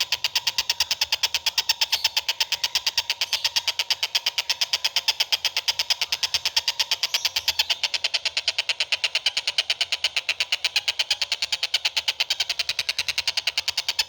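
A bird calling in a fast, unbroken run of sharp, high-pitched repeated notes, about eight a second.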